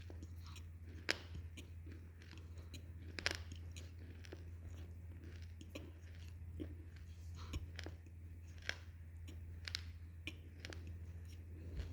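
Close-miked chewing of soft sambhar idli, mostly quiet wet mouth sounds with a sharp click or smack every few seconds.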